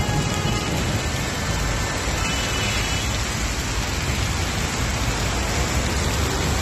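Torrential rain pouring down as a steady, even hiss.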